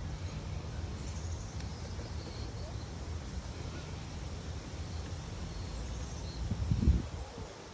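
Wind rumbling and buffeting on the microphone, with a few faint high bird chirps, and one louder low buffet of wind near the end.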